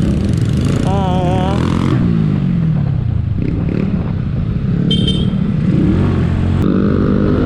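A Skygo Earl 150's single-cylinder CG150 engine, fitted with a 28mm carburettor and an open exhaust, running under way in traffic. The revs drop away about two seconds in. A short high beep sounds about five seconds in.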